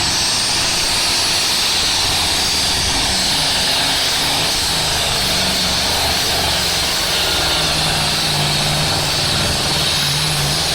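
Pulling tractor's engines running at full power, loud and steady throughout, with a faint high whine on top.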